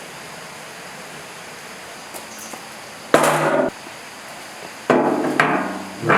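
Hammer blows on metal, each one ringing on briefly: one about three seconds in, then three in quicker succession near the end.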